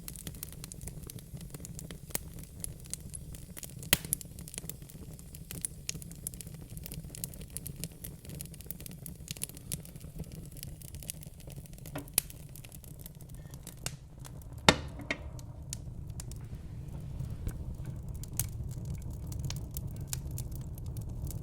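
Fire crackling in a fireplace: a steady low rumble of flames under dense snaps and clicks, with a few louder pops, the loudest about fifteen seconds in.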